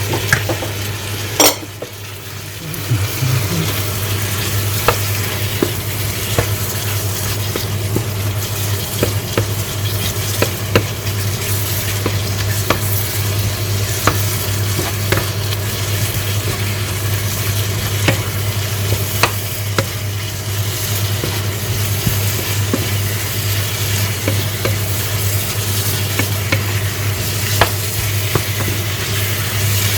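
Food sizzling in a frying pan as it is stirred, with scattered clicks of the utensil against the pan and one louder click about a second and a half in. A steady low hum runs underneath.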